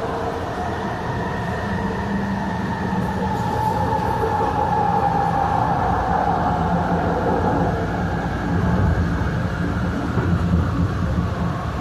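Passenger train running along its track, heard from on board: a steady rumble of wheels on rail with a drawn-out whine that sinks slightly in pitch through the middle.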